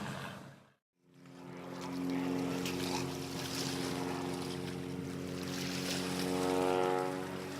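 After a brief dropout to silence about a second in, a piston engine drones steadily.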